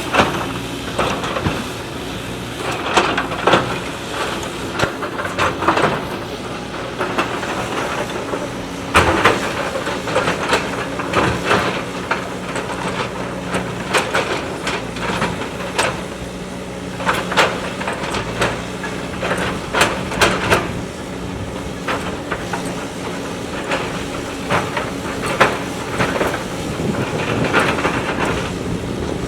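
JCB backhoe loader's diesel engine running steadily under working load, with frequent sharp metallic clanks and scrapes from the bucket and arm as it digs.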